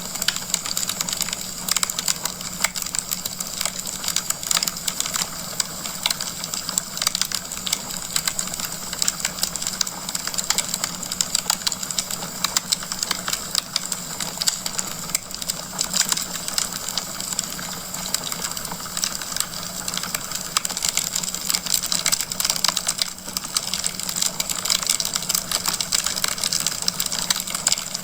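Wood fire burning in a fireplace, a dense continuous crackling of many small pops and snaps over a soft hiss.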